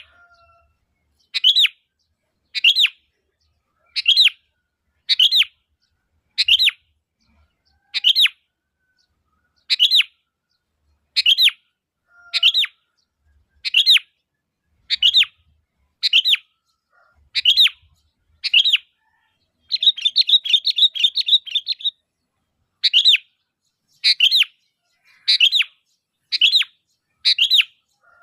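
Sooty-headed bulbul calling: a short, clear call repeated about once a second. About twenty seconds in it breaks into a quick run of chattering notes, then goes back to single calls.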